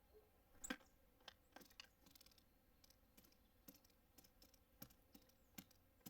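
Small birds tapping and pecking at seeds on the feeder: a scatter of irregular sharp taps and clicks, the loudest about a second in.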